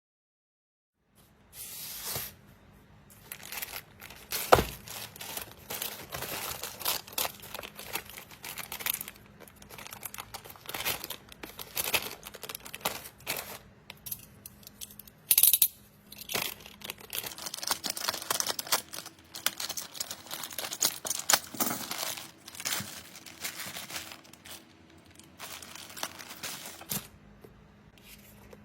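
Close, irregular tearing and crinkling in short bursts, like material being torn and handled, with one sharp click about four and a half seconds in.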